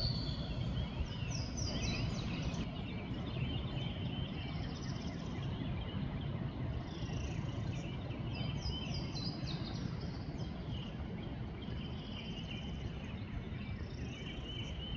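Several birds chirping and trilling on and off, over a steady low rushing background.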